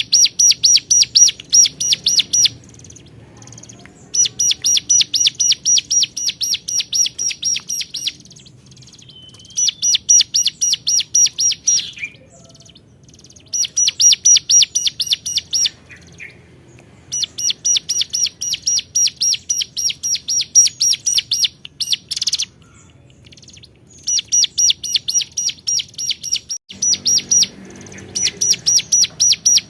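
Ciblek gunung, a mountain prinia, singing in bouts of rapid, evenly repeated high chirps, about six a second. Each bout lasts two to four seconds, with short pauses between, about seven bouts in all. It is the bird's full, vigorous 'gacor' song, calling out to a rival.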